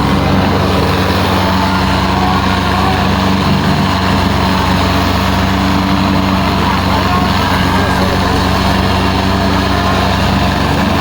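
Tractor diesel engines running steadily under heavy load, a continuous drone, with crowd voices.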